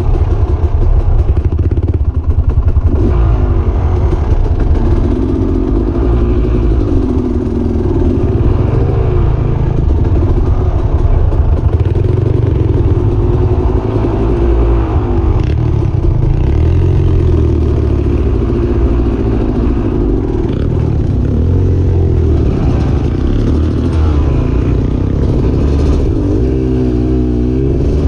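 Off-road vehicle engine revving and labouring, its pitch rising and falling again and again as it is throttled up and eased off, with some clatter.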